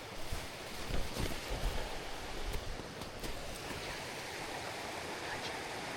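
Steady rush of a swollen, fast-flowing stream, with a few dull thumps in the first couple of seconds.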